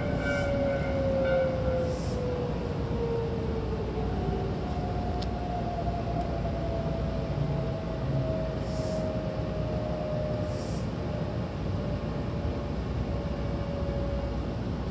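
Interior of a Hankyu Kyoto Line commuter train running: a steady rumble from the wheels on the track, with motor whine that falls slowly in pitch as the train slows. A few faint high ticks come and go over it.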